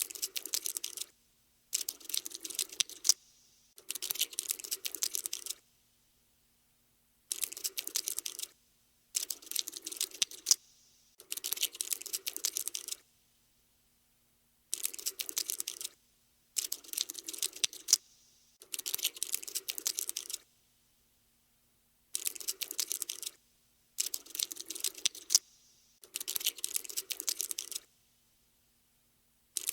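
Cockroach scuttling sound effect: bursts of rapid, dry clicking, each a second or two long with short silences between, about a dozen times over.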